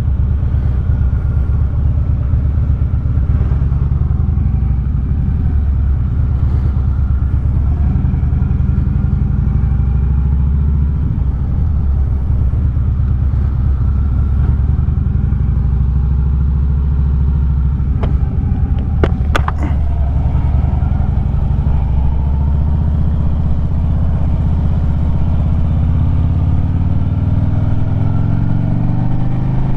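2009 Harley-Davidson Street Glide's V-twin running on the road through 4.5-inch Sharkroad slip-on mufflers, its engine speed wavering and then climbing near the end. A few sharp clicks about two-thirds of the way through.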